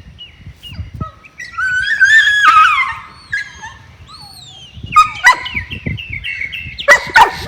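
A dog gives a long, high, wavering whine about a second and a half in, then a run of sharp yelps and barks near the end, a crazy dog bark. Birds chirp faintly in the background.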